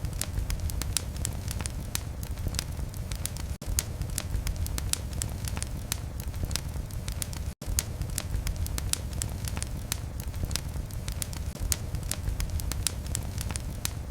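Wood fire in a fireplace crackling steadily: many small sharp pops and snaps over a low rumble of flame. The sound cuts out for an instant twice.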